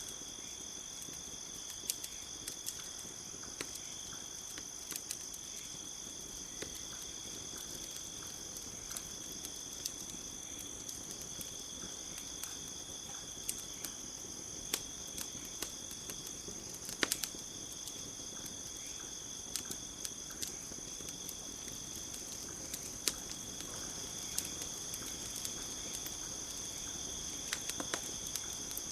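Campfire crackling, with scattered sharp pops at irregular intervals, one louder pop partway through. Under it runs a steady, high-pitched chorus of crickets.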